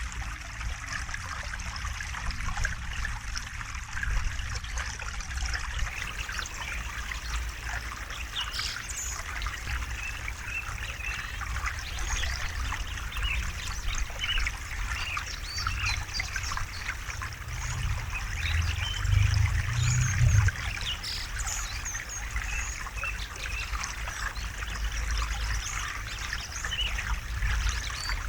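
River water flowing and babbling over stones, a steady trickling wash with a low rumble underneath that swells louder for a couple of seconds about two-thirds of the way through.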